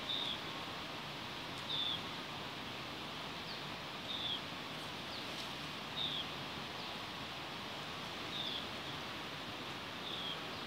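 A bird repeating a short, high, slightly falling call about every two seconds, six times, over a steady hiss of forest ambience.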